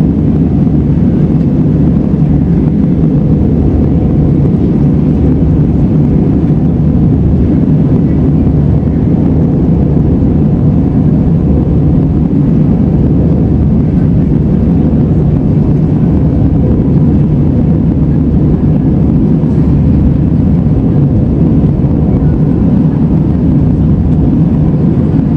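Steady low engine and airflow noise heard inside a jet airliner's passenger cabin in flight, with the seatbelt signs switched off.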